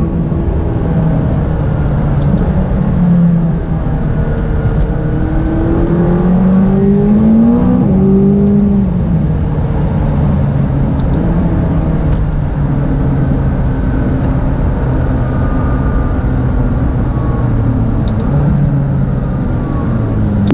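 McLaren 570GT's twin-turbo V8 pulling along the road. The revs climb and drop sharply at upshifts near the start and about eight seconds in, then hold fairly steady and ease off. A few faint sharp clicks come through along the way.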